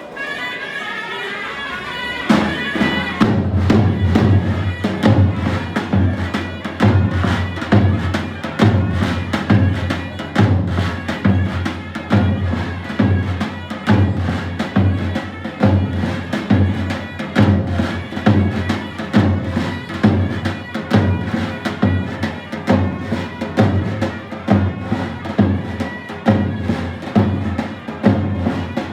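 Turkish folk dance music: a shrill wind-instrument melody, joined about two seconds in by a deep drum keeping a steady beat of roughly one and a half strokes a second.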